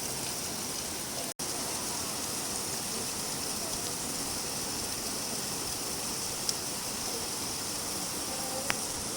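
Steady rain falling, a dense even hiss, with a few faint single ticks. It cuts out for an instant about a second and a half in.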